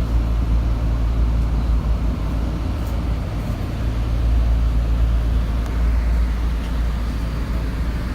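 Tokyo Metro 02 series subway train running through the tunnel, heard from inside: a steady low rumble of wheels on rail.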